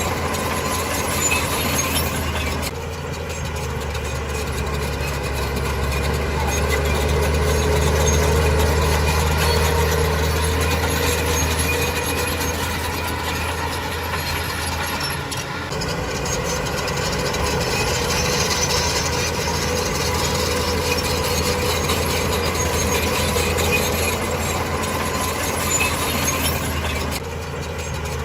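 Heavy diesel engine of an earthmoving machine running with a steady low drone, its sound shifting abruptly a few times.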